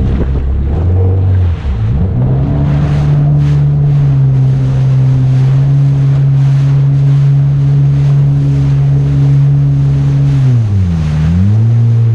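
Jet ski engine running at speed, with water rushing and wind buffeting the microphone. Its pitch climbs about two seconds in and holds steady, then dips briefly near the end as the throttle is eased off and comes back.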